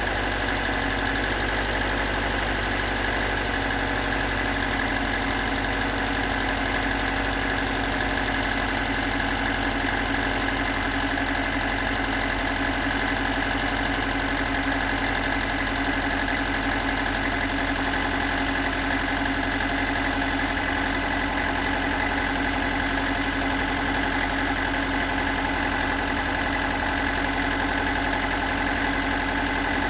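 Toyota 4A-GE 1.6-litre twin-cam four-cylinder engine idling steadily, with the rough idle and knocking sound whose cause the owner has not been able to locate.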